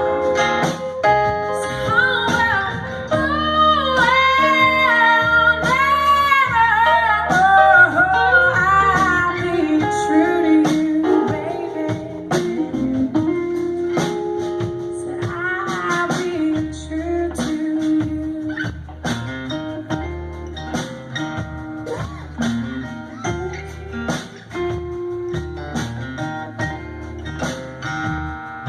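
Live blues band: a voice singing over guitar and drums for about the first ten seconds, then the guitars carry on with the drums keeping the beat.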